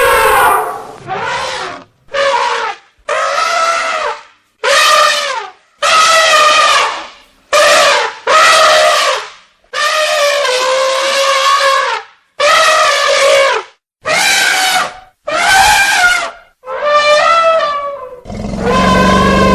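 Elephants trumpeting: about a dozen loud, brassy, pitched blasts one after another, each a second or so long, with short silent gaps between them.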